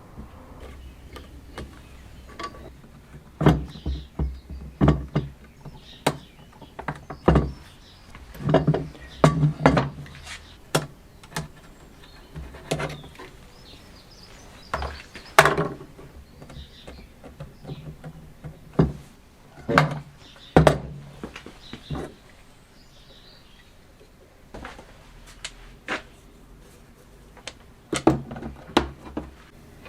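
Irregular knocks, taps and clicks of parts and hand tools being handled on a workbench, some of them sharp and loud.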